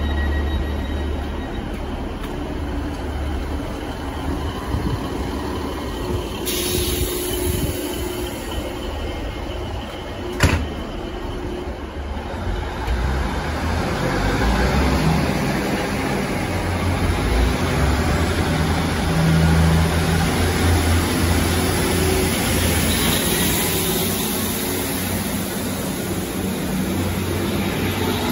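Diesel multiple-unit trains at a platform: one unit's engine running while it stands, then a sharp click, then another unit's engine and wheels running past along the platform, louder and fuller.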